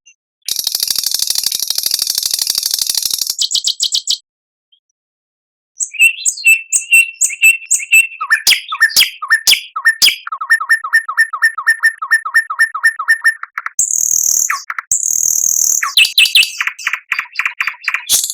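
Recorded songbird song: a long, high, buzzy trill, then after a pause of about a second and a half a varied phrase of clear whistles, fast runs of repeated notes at about ten a second, and harsh buzzy calls.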